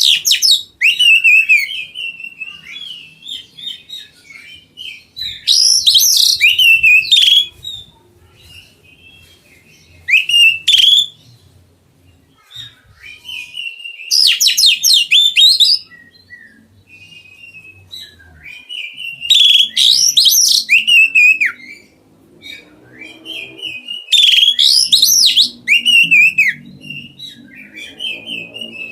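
Oriental magpie-robin (kacer) in full song: loud bursts of fast, varied whistles and chirps with quick rising and falling notes, each burst lasting one to two seconds and coming about every four to five seconds, with softer chirps between them.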